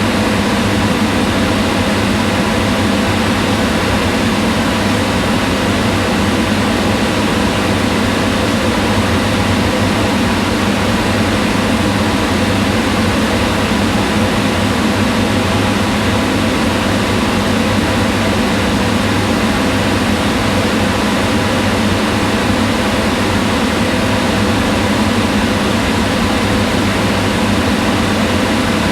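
Kitchen range hood fan running steadily: an even whoosh of moving air with a low hum, not changing at all.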